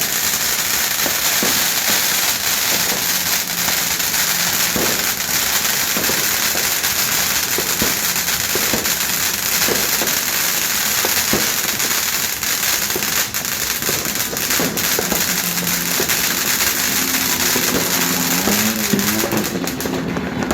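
Dense New Year's firecrackers and fireworks going off without pause: a continuous loud crackle of many small bangs running together, with sharper single bangs standing out now and then. It starts abruptly and stays loud throughout.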